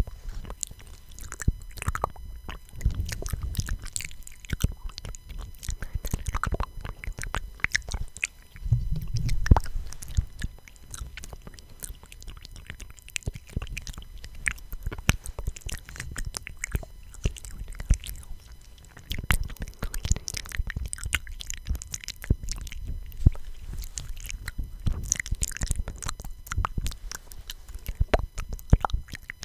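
Close-miked ASMR mouth sounds: a steady run of small lip and tongue clicks and pops into the microphone, with soft breathy rumbles now and then.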